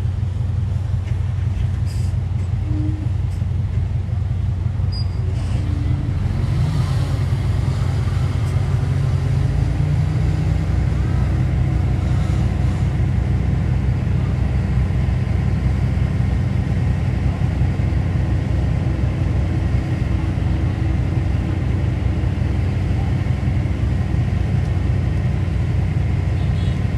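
Heavy diesel engine of earthmoving machinery running steadily with a low rumble, rising a little in pitch between about six and ten seconds in.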